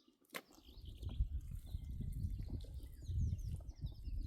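Birds chirping in quick short, falling notes, over a loud low rumbling noise that starts about a second in, with a sharp click near the start.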